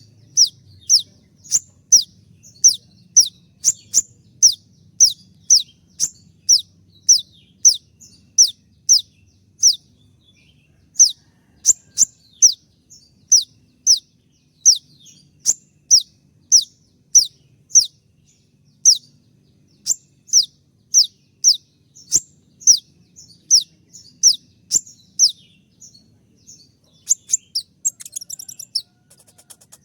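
Konin (kolibri ninja) sunbird calling: sharp, high notes, each sweeping down, repeated about twice a second in the shot-like "tembakan" style, with a short pause about ten seconds in and a quicker chatter near the end.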